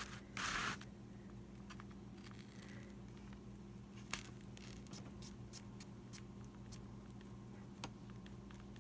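Small handling sounds at a craft table: a brief rustle about half a second in, then scattered light clicks and taps, over a steady low hum.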